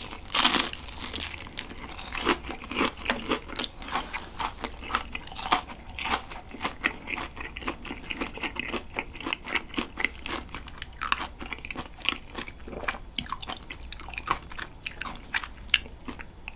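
Crispy breadcrumb-coated fried king prawn being bitten and chewed close to the microphone. There is one loud crunch about half a second in, then continual crisp crunching as the crust is chewed.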